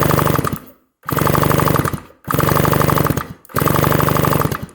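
1975 Yamaha RD200 twin two-stroke engine being spun over on its electric starter in four bursts of about a second each, turning fast with a steady whine and an even clatter, without firing: the engine is cranked to check for spark at both cylinders.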